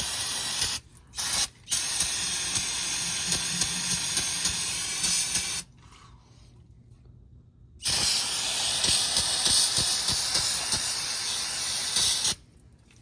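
Aerosol cleaner spray can hissing in four bursts, two brief ones and then two long sprays of about four seconds each, washing spilled oil off the underside of the engine.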